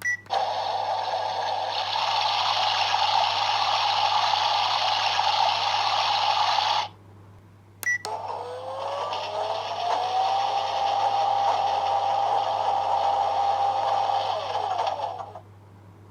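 A miniature capsule-toy washing machine playing its built-in sound effect through a small speaker. A short beep is followed by a tinny rush of water-like hiss with a hum, which cuts off after about seven seconds. A second beep starts another run in which a whine rises, holds steady, then falls away near the end, like a spin cycle.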